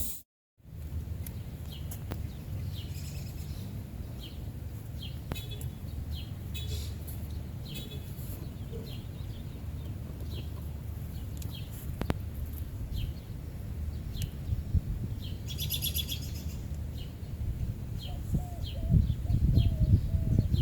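Small birds chirping, short high chirps repeated every second or so, over a low steady rumble.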